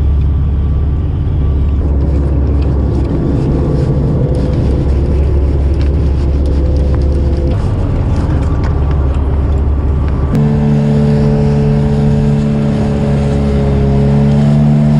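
Lifeboat's engines running steadily, the engine note changing abruptly about ten seconds in.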